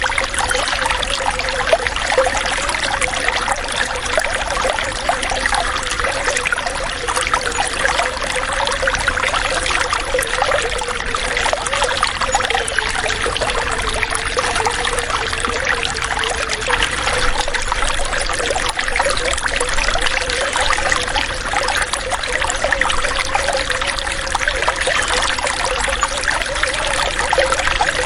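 Running water trickling and gurgling steadily, a continuous bubbling flow without pauses.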